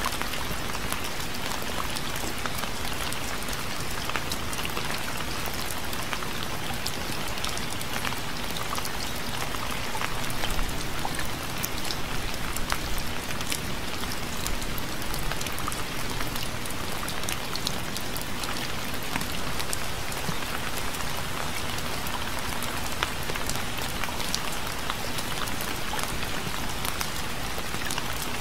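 Steady, gentle rain falling on a surface, with many individual drops ticking through a constant hiss. It grows a little louder for a couple of seconds about ten seconds in.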